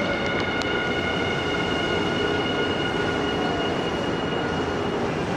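Nankai electric train moving along the station platform, with a steady rumbling roll and several high, steady whining tones that die away near the end. A few sharp clicks come about half a second in.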